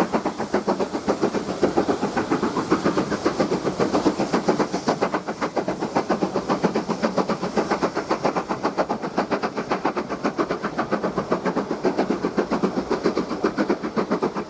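Exhaust beats of a USATC S160 2-8-0 steam locomotive working along the line: a steady run of rapid, even chuffs, about six a second.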